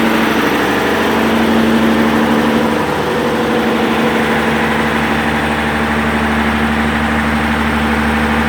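PSI 11.1-litre six-cylinder natural gas engine running steadily at about 1500 rpm, driving an irrigation well pump. The speed holds constant, with a slight change in tone about three seconds in.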